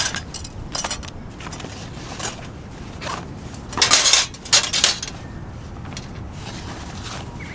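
Small hard objects being handled: scattered light clinks and clatter, with two louder rustling, scraping bursts about four seconds in.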